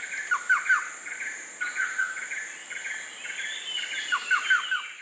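Tropical forest ambience: birds calling with many short chirps, including two runs of three quick falling notes near the start and near the end, over a steady high-pitched insect drone.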